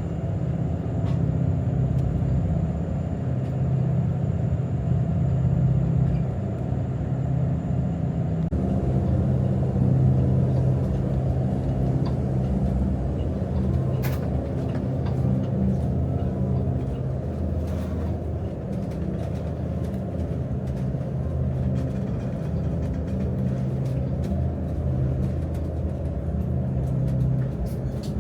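Steady low engine drone heard from inside a moving vehicle or vessel, a constant hum with a slight shift in its tone about eight seconds in.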